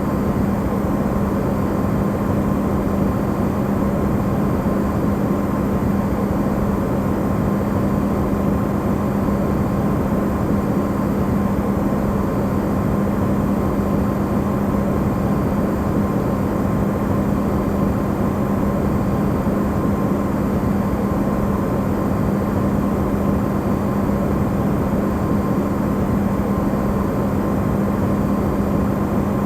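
Amplified hum of an Electrolux refrigerator running, a steady low drone with an even noise around it and a fainter higher tone, unchanging throughout.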